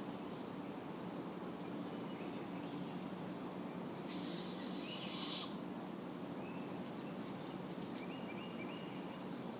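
Barred owl giving one loud, high, raspy screech that rises in pitch, about four seconds in and lasting about a second and a half. Fainter short chirps come before and after it.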